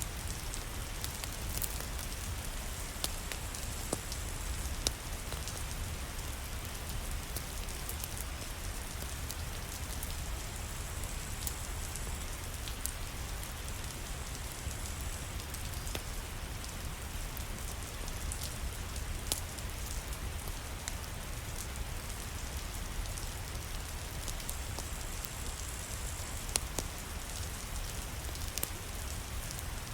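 Steady rain falling, an even hiss with a low rumble, dotted with scattered sharp clicks.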